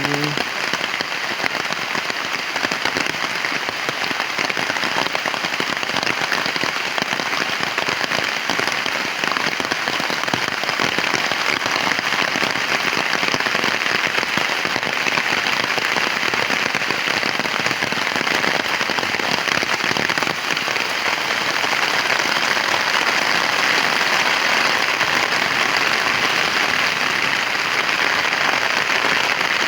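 Heavy rain falling steadily in a dense, even hiss, getting a little louder in the second half.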